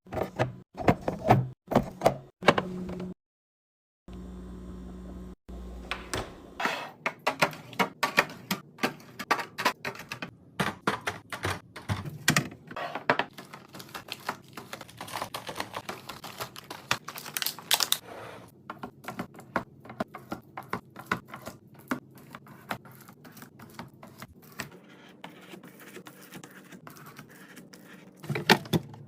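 Rapid, irregular clicking and tapping of plastic containers and packaged items being handled, set down and arranged, with a brief gap about three seconds in.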